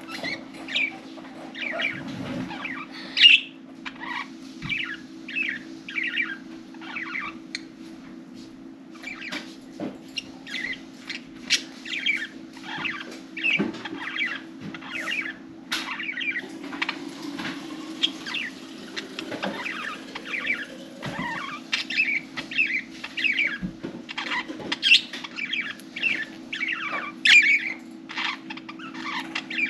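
Budgerigars chirping and chattering in a constant stream of short calls, over a steady low hum.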